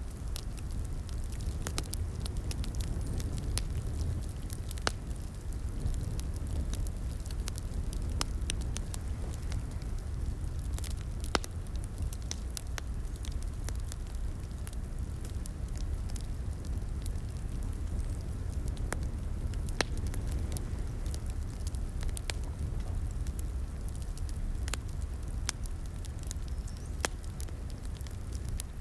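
Fireplace crackling: a steady low rumble of burning wood with scattered sharp pops and snaps at irregular intervals, the loudest a little over a third of the way in and again about two-thirds in.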